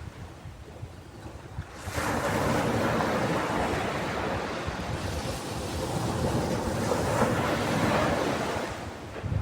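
Ocean surf on a beach: a lull, then about two seconds in a wave breaks and its wash of foam rushes for several seconds before easing off near the end.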